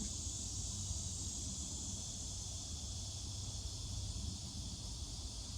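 Steady background hiss with a low rumble underneath: the recording's room or background noise between sentences, with no distinct events.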